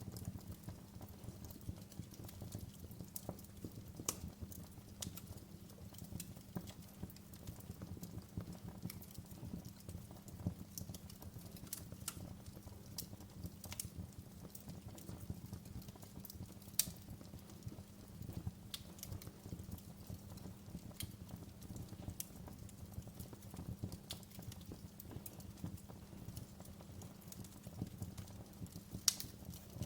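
Wood fire burning in a fireplace: a steady low rumble with irregular crackles and pops, a few sharper snaps standing out.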